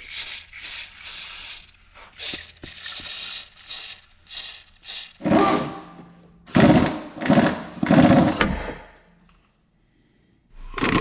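Hand tools working metal on a vehicle: a run of short, quick rattling strokes, then louder strokes from about the middle, stopping about a second and a half before the end.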